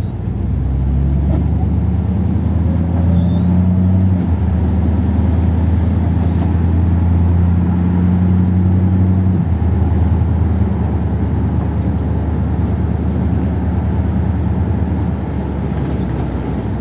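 1957 Ford Thunderbird's V8, running on a two-barrel carburettor, pulling the car along the road, with road noise. The low engine note steps in pitch about four seconds in and again near ten seconds in.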